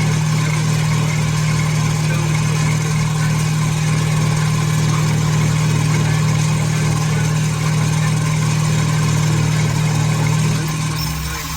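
A machine running steadily with a strong, even hum, easing off briefly near the end.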